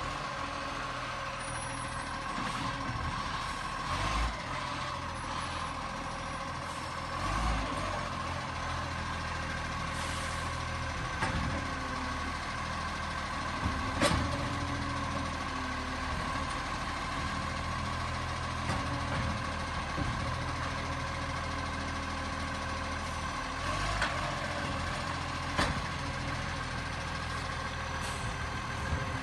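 Garbage truck running steadily, with a steady high whine over the engine and a few scattered clunks, the sharpest about halfway through.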